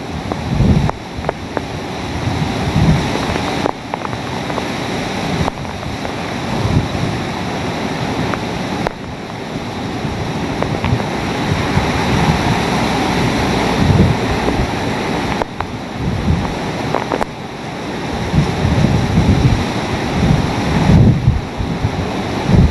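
Hurricane wind blowing hard in a steady, dense rush that swells and eases in gusts, with low rumbling buffets of wind on the microphone near the start and again near the end.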